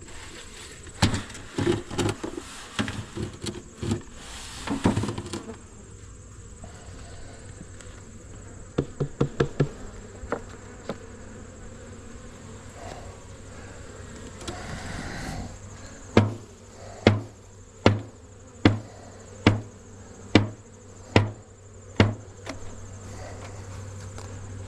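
Honey bees buzzing around an open hive. Over the buzzing come wooden knocks and taps of hive parts in the first few seconds, a quick flurry of clicks partway through, and later a run of about eight sharp, evenly spaced clicks, a little under one a second.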